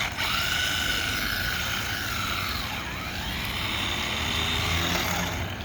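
Brushed electric motor of a 1/16-scale SG-1603 RC drift truck whining, its pitch rising and falling as the throttle is worked.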